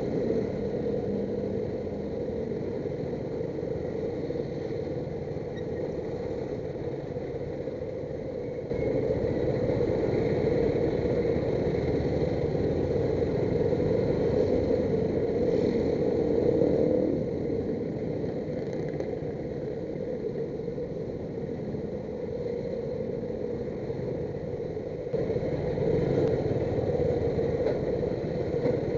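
Motorcycle engine running in slow, heavy road traffic, mixed with the steady noise of the vehicles around it. It gets louder about nine seconds in, eases off around seventeen seconds, and rises again near the end.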